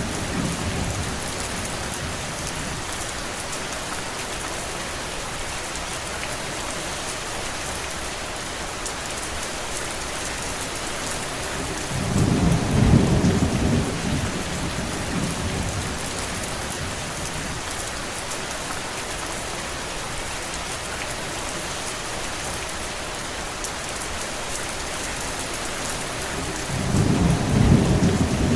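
Steady rain falling, an even hiss. A low rumble swells and fades for about two seconds, once about 12 seconds in and again near the end.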